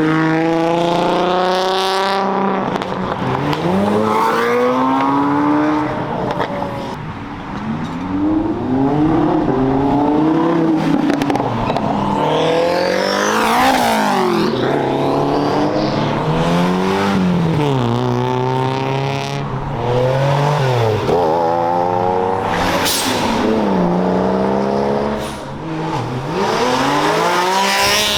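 Cars accelerating hard away from a car show one after another, engines revving up through the gears. The pitch climbs and drops back with each upshift, and near the middle several engines overlap in crossing sweeps as cars pass.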